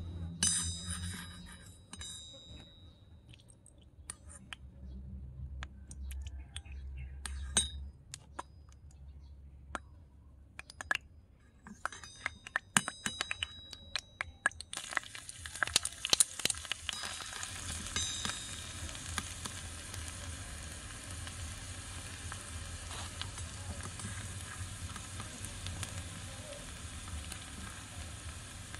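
A small metal spoon clinks and scrapes against a miniature iron wok of hot oil. About halfway through, chopped garlic goes into the oil and fries with a steady sizzle while the spoon stirs it.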